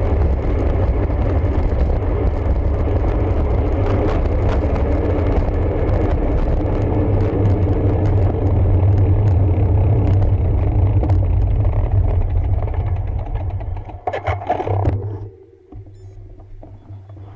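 Wind buffeting the microphone and tyre rumble while riding a road bike at speed, a steady loud rush. A few clattering knocks come near the end, then the noise drops away sharply as the bike slows.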